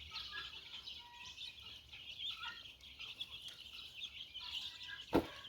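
A flock of poultry calling: a steady chatter of many small, high peeping and chirping calls with a few lower clucks among them. A single sharp knock comes near the end.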